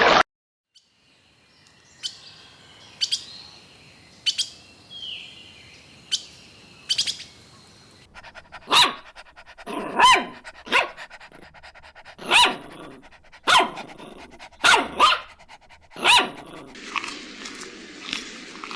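A dog barking repeatedly: about nine separate sharp barks in the second half, after a few short chirping calls in the first half.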